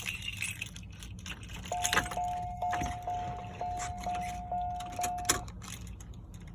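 1992 Oldsmobile Custom Cruiser's dashboard warning chime dinging about eight times, a little over two a second, then stopping, with keys jangling and sharp clicks around it.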